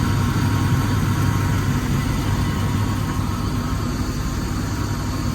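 1995 Bentley Continental R's 6.75-litre turbocharged V8 idling steadily shortly after a cold start, with a low, even rumble.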